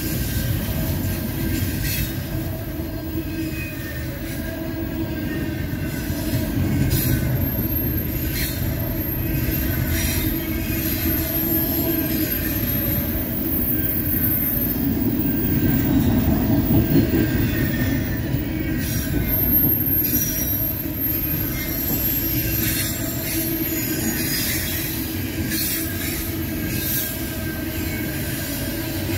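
Double-stack intermodal well cars rolling past with a steady rumble of wheels on rail and occasional clacks, with a thin, high wheel squeal that comes in twice.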